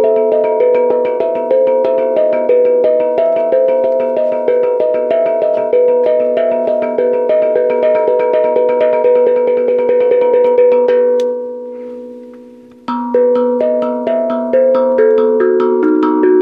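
Pitched percussion struck in a fast, steady, repeating melodic pattern, the notes ringing like bells or a marimba. About eleven seconds in the playing stops and the last notes ring out. Just under two seconds later it starts again abruptly.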